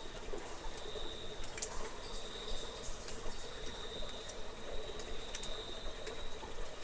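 Cave nature ambience: an insect's steady high trill that breaks off every second or so, over a low wash that may be trickling water, with scattered sharp clicks.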